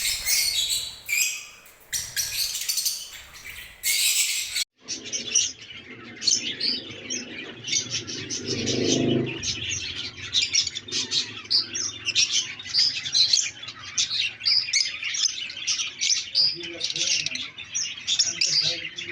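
Pet parrots chirping and chattering: a dense flock chatter for the first few seconds, a sudden break, then a steady run of quick high chirps.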